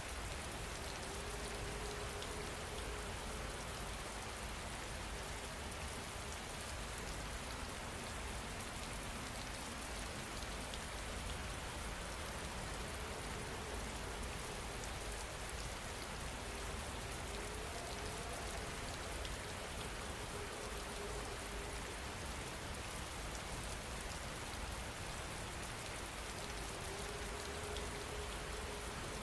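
Steady rain falling, an even hiss without a break. A faint low tone comes and goes a few times beneath it.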